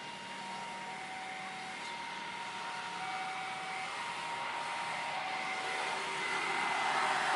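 Jet airliner engines whining over a steady rushing noise, growing steadily louder.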